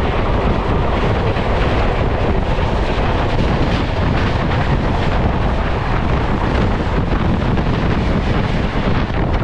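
15235 Howrah–Darbhanga Express running at speed, heard from inside a sleeper-class coach: a loud, steady rumble of wheels on the track with wind buffeting the microphone.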